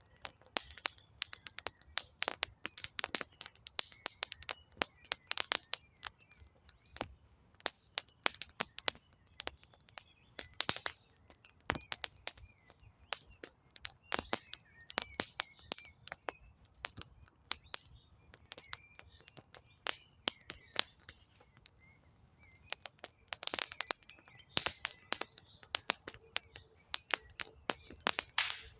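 Wood campfire crackling, with irregular sharp pops and snaps, and faint bird chirps in the background.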